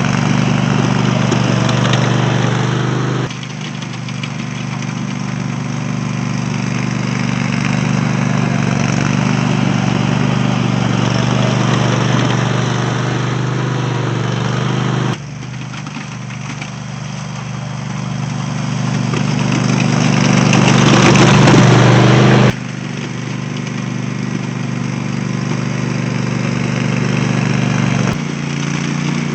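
Cub Cadet riding mower's engine running steadily while it pushes a plow blade through snow. The level jumps abruptly several times and builds for a few seconds in the second half.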